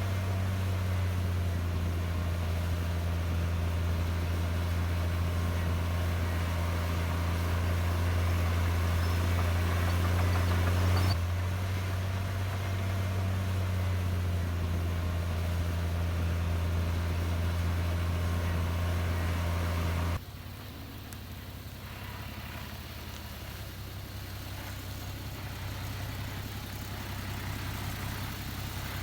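Heavy diesel engine of earthmoving machinery running steadily with a deep, even hum. About twenty seconds in it drops abruptly to a quieter, lower engine sound.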